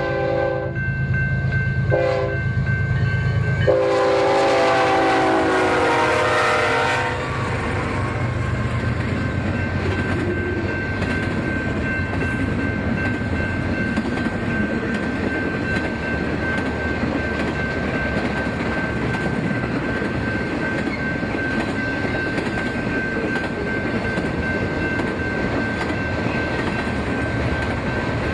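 Train horn sounding a chord: a blast at the start, a short toot about two seconds in, then a longer, louder blast that drops in pitch as the locomotive goes by. The train then rolls past steadily, wheels on rail joints, with a thin steady whine over the rail noise.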